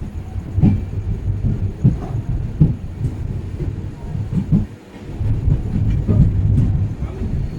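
Passenger train running on the track: a steady low rumble with irregular low thumps about once a second.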